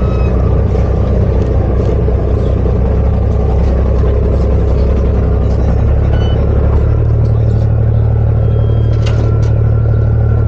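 Sightseeing boat's engine running steadily, a low hum; about seven seconds in, its note steps up higher.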